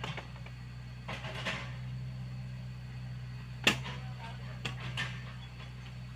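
Komatsu PC75UU mini excavator's diesel engine running steadily, with one sharp metallic knock about three and a half seconds in and two lighter clicks soon after.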